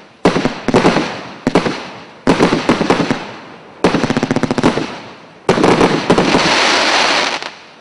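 GWM 6102 multi-shot fireworks battery firing in five bursts of rapid crackling reports, the last burst the longest, at about two seconds.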